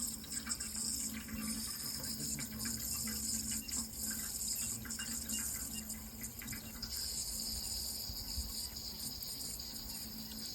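Running water, a steady even rush with no breaks, over a faint steady low hum.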